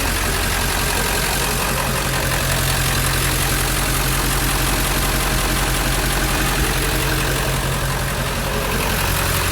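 7.3L diesel engine idling steadily while still cold. It is warming up after sitting eight hours and blowing white smoke, which the owner suspects comes from bad injectors.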